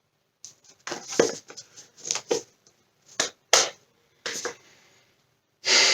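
Handling noise close to the microphone: a string of sharp knocks and short rustles, then a louder, longer rustle near the end.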